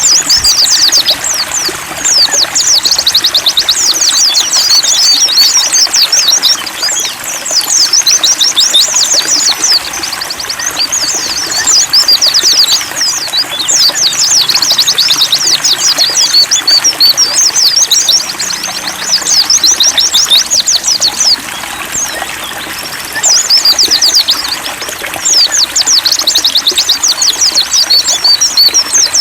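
White-eyes (pleci) singing long, rapid, high-pitched twittering phrases that come in runs of several seconds with short breaks. Underneath runs a steady trickle of water.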